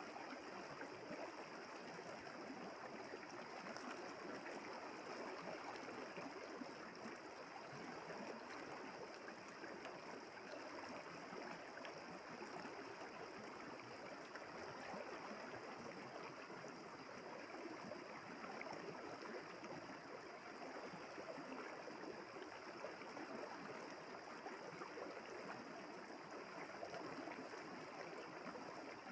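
River water flowing steadily, an even rush with no breaks.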